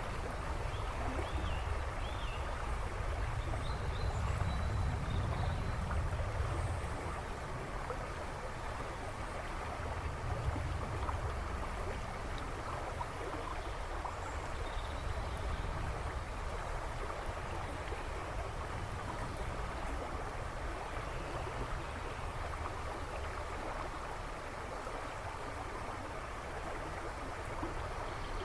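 A river rushing and babbling in a steady wash of water noise, with a low rumble that is heavier in the first few seconds. A few faint bird chirps come through in the background, mostly early.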